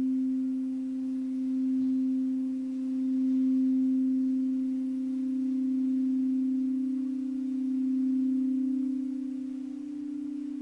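Singing bowl sounding one sustained, pure low tone that swells and eases slowly in volume; a second, slightly higher tone joins near the end.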